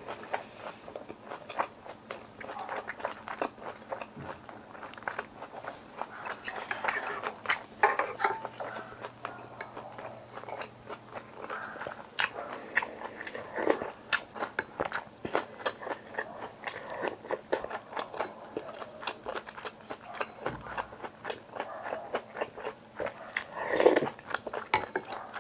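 Close-miked eating sounds: a person chewing and biting food, with frequent short wet clicks and smacks of the mouth.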